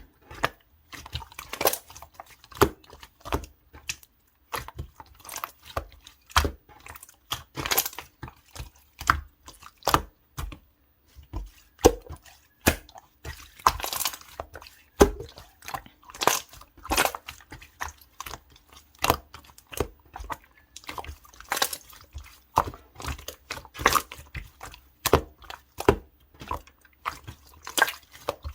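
Clear slime being squeezed and pressed by hand, giving irregular sticky clicks and small wet pops, several a second, with brief pauses.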